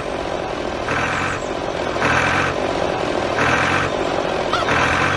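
Vehicle reversing alarm beeping steadily, one half-second beep about every 1.2 seconds, four times, over a running engine as the vehicle backs up.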